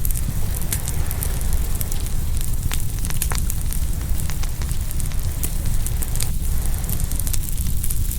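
Open wood fire crackling and popping, with frequent sharp snaps scattered irregularly, over a steady low rumble.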